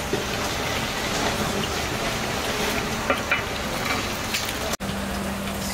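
Masala paste sizzling as it fries in oil in a large steel cooking pot, with a ladle stirring through it. It breaks off suddenly near the end and gives way to a steady low hum.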